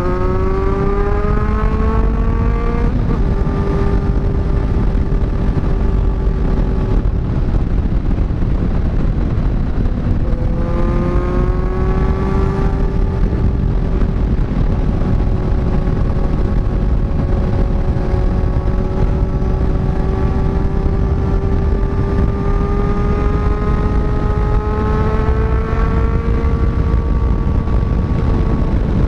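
Kawasaki inline-four sport motorcycle engine accelerating under a rider. Its pitch climbs near the start and again about ten seconds in, holds steady in between, and rises slowly later on. Heavy wind rumble on the microphone runs underneath.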